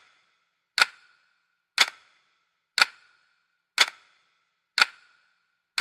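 Sharp ticks, evenly spaced about one a second, each with a short ringing tail and silence between them, like a clock-tick sound effect.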